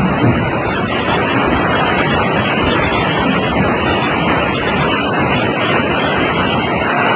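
Fast-flowing floodwater from a rain-fed torrent rushing past in a loud, steady flow.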